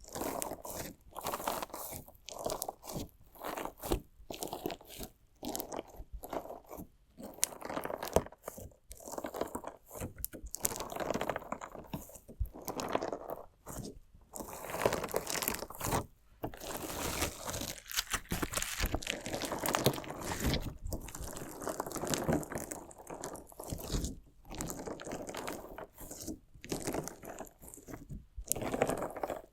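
Crunchy slime mixed with small decorative stones being worked close to the microphone: a run of irregular crackling, grinding crunches in short bursts with brief pauses between them.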